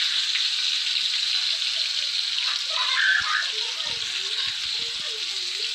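Ground masala paste sizzling in hot oil in a kadhai: a steady frying hiss, with a single knock about three seconds in.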